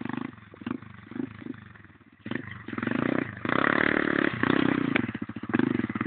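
Pit bike engine: a few short throttle blips, then revving up about two seconds in and running hard at high revs.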